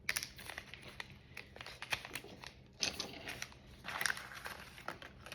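Plastic packaging crinkling and rustling in short, irregular bursts, with small clicks, as a small wrapped item is handled and opened.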